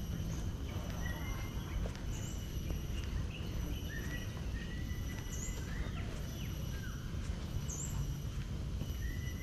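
Birds calling: a whistled note that rises and then holds level, repeated every second or two, with short higher chirps in between. Under them run a steady high insect drone and a low rumble.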